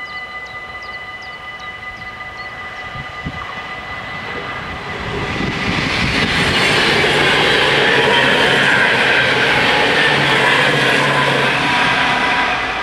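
NS ICMm (Koploper) electric multiple unit passing the level crossing: its wheel and running noise swells about five seconds in, holds loud for several seconds and drops away near the end. The crossing's warning bells ring steadily throughout.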